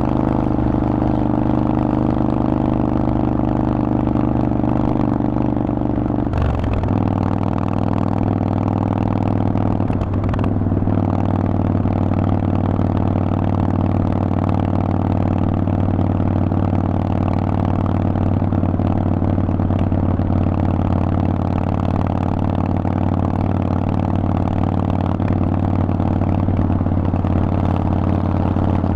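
Harley-Davidson Forty-Eight's 1200 cc V-twin engine running through a Vance & Hines exhaust, holding a steady engine speed under way. About six seconds in the note breaks and drops to a lower pitch, then runs steady again.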